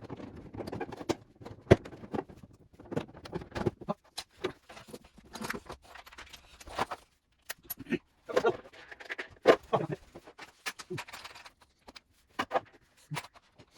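Irregular clicks, knocks and rattles of refrigerator parts being handled and fitted back into place by hand, with short stretches of scraping or rustling between them.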